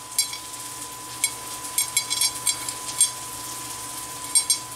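Breaded fish frying in hot oil in a pan: scattered sharp crackles and pops over a faint steady sizzle.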